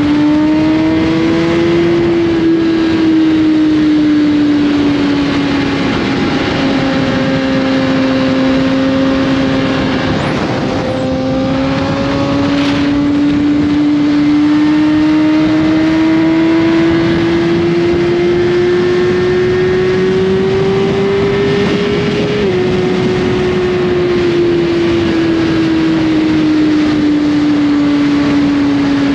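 2021 Suzuki GSX-R1000's inline-four engine breathing through an Austin Racing slip-on exhaust while the bike is ridden at a steady cruise. The engine note climbs slowly, drops slightly about three-quarters of the way through, then eases down.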